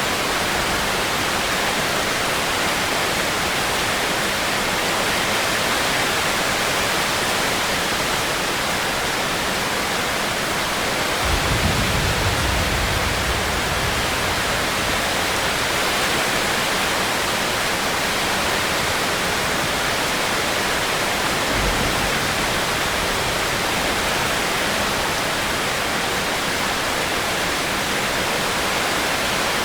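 Steady heavy rain falling, an even hiss. A brief low rumble rises under it about a third of the way in, with a shorter one about three quarters of the way through.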